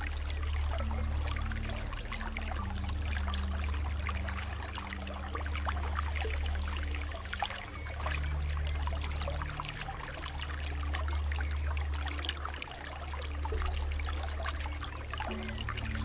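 Water trickling and pouring, like a small stream, over a deep sustained hum whose notes change every few seconds.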